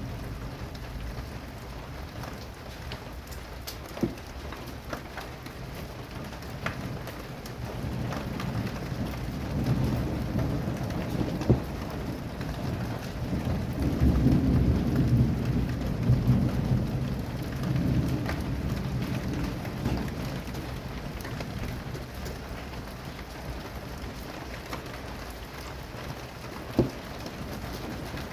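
Steady rain falling, with a long low rumble of thunder that swells up about a third of the way in and dies away over some ten seconds; a few sharp ticks stand out now and then.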